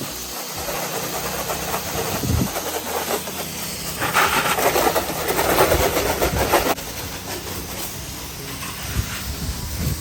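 Pressure washer running: a steady engine hum under the hiss of the high-pressure water spray. The spray grows louder a few seconds in and drops off suddenly past the middle.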